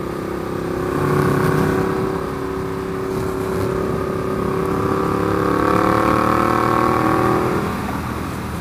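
Ducati Diavel's 1198 cc L-twin engine pulling under throttle at highway speed, its note climbing gently, then backing off near the end, over a steady rush of wind.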